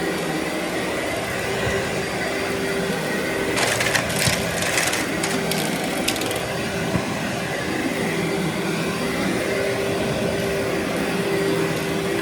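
Vacuum cleaner running steadily with a constant motor hum, and from about three and a half to six seconds in a burst of crackling as grit and debris from the heavily soiled carpet rattle up into it.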